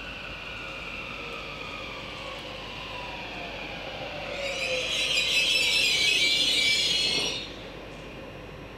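Electric multiple-unit train braking to a stop: its motor whine falls steadily in pitch as it slows. Then, from about four seconds in, a loud high brake squeal and hiss lasts about three seconds and cuts off suddenly as the train comes to a halt.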